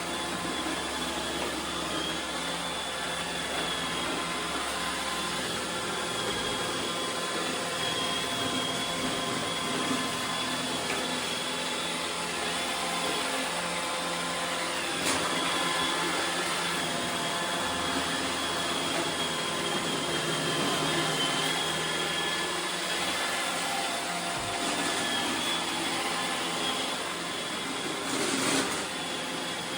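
iRobot Roomba 850 robot vacuum running, a steady whirr with a high whine over it. There is a short click about halfway through and a brief louder burst near the end.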